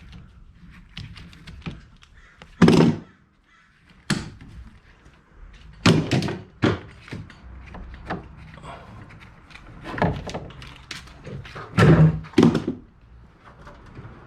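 Clamps being loosened and pulled off a newly set window frame: a series of sharp knocks and clunks, the loudest about three seconds in and again near twelve seconds.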